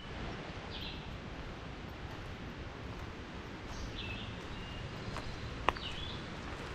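A small bird gives short chirping calls three times, over a steady low rush of woodland background noise, with one sharp click shortly before the last call.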